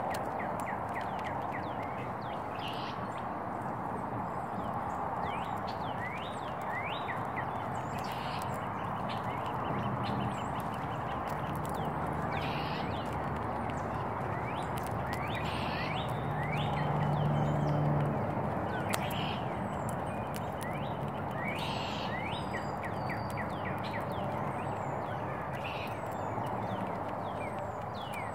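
Small birds chirping over and over in short, falling chirps, over a steady background rush. A low hum comes and goes in the middle.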